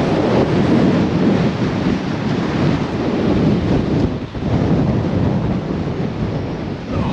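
Gale-force wind buffeting the microphone, a loud, steady rumbling roar that dips briefly about four seconds in.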